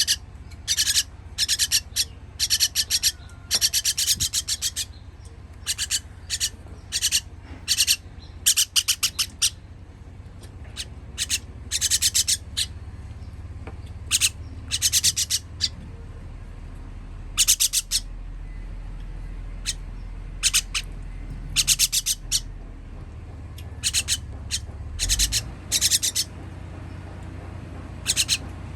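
Baby birds giving high, rapid, raspy begging calls in short bursts that come again and again, every second or two, over a steady low hum.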